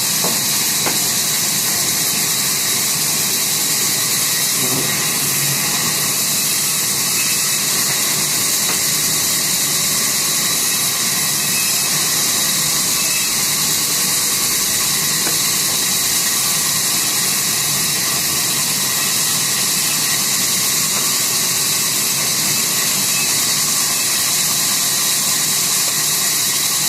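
Sawmill saw running steadily, a continuous mechanical noise with a strong high hiss and no let-up.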